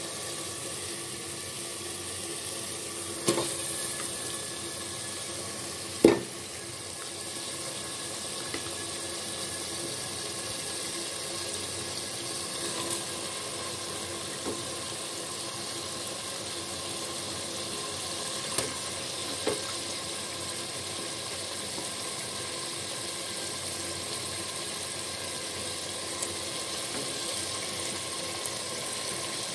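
Spice paste and beef frying in oil in a metal pot, a steady sizzle. A sharp utensil knock on the pot comes about six seconds in, with a few lighter clicks.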